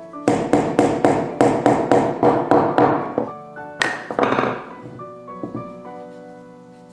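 Rapid, even hammering on wood, about four blows a second for roughly three seconds, then one last blow and a fade. Background music plays throughout.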